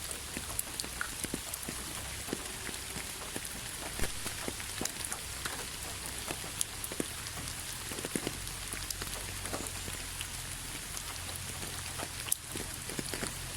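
Steady rain falling on a hard surface, a constant hiss with many separate drops ticking and plinking irregularly close by.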